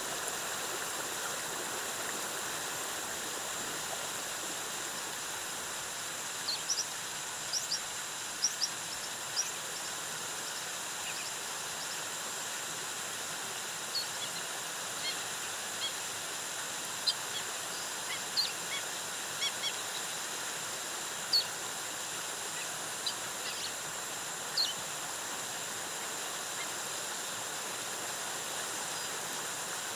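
Waterfall rushing steadily, with short high bird chirps scattered through the middle stretch, from about six seconds in to about twenty-five.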